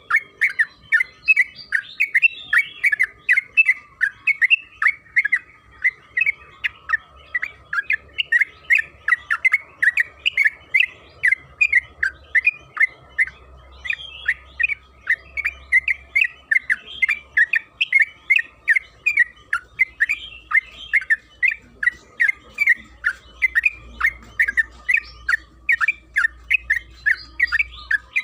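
Yellow-vented bulbul (trucukan) singing a long, unbroken run of short, sharp chattering notes, about three a second.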